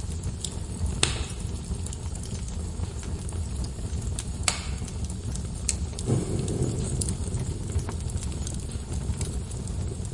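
Wood fire burning in a fireplace: a steady low rumble of flames with scattered sharp crackles and pops, the loudest about a second in and again about four and a half seconds in. A brief low rush just after six seconds.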